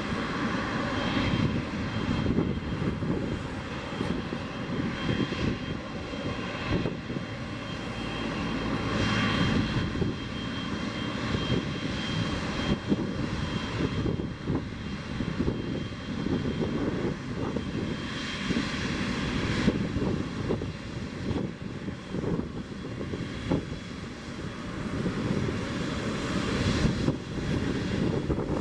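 Boeing 777-200F freighter arriving, its twin GE90 turbofan jet engines running: continuous rumbling engine noise that swells and fades irregularly, with a steady high whine over it.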